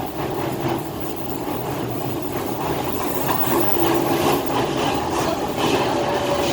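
Docklands Light Railway electric train running between stations, heard from inside the carriage: a steady rumble of wheels on rails with a few faint held tones.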